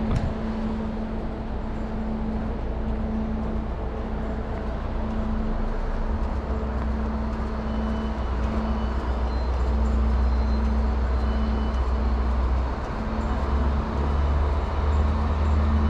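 Train at a station platform: a steady hum with a low rumble that grows stronger about six seconds in, as the train gets ready to pull away.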